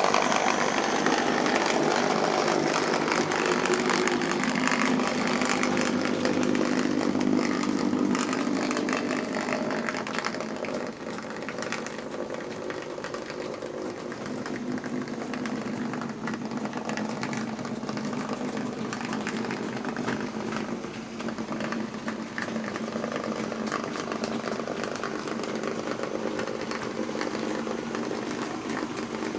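OO gauge model train running on its track: the locomotive's small electric motor whirs and the wheels rattle over the rails. It starts suddenly, runs louder for about the first ten seconds, then drops a little and continues steadily.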